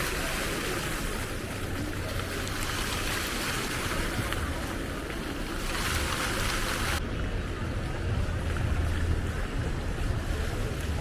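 Steady hiss of rain over a low rumble of city traffic. About seven seconds in, the bright rain hiss drops away abruptly, leaving the duller rumble.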